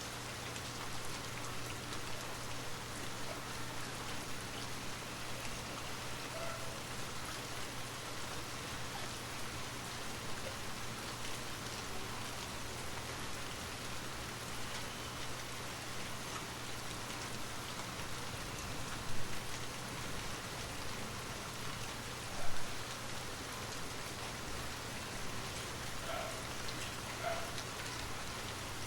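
Steady rain ambience, an even continuous patter over a steady low hum. Two brief louder sounds stand out in the second half, about three seconds apart.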